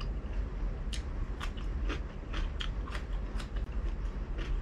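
Close-miked chewing of crispy fried pork belly: a string of sharp crunches, about two or three a second, with a bite into a green chili near the end. A low steady hum lies underneath.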